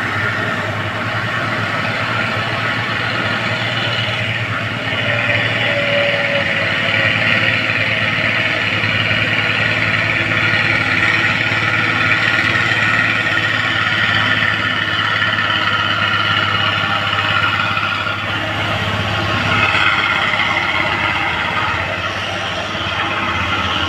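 Heavy diesel truck engine running steadily as it climbs, with a constant low drone.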